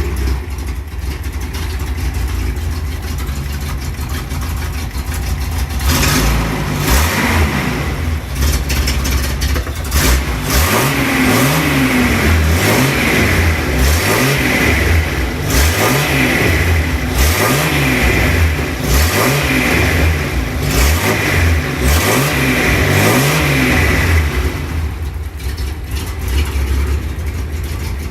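Nissan 240Z's 2.4-litre inline-six (L24) engine idling, then blipped through a series of quick revs, roughly one every two seconds, from about six seconds in until near the end, when it settles back to idle.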